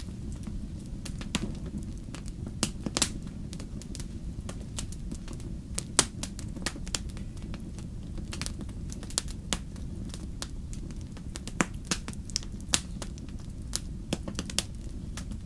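Wood campfire crackling, with frequent sharp irregular pops and snaps over a steady low rumble of the burning fire.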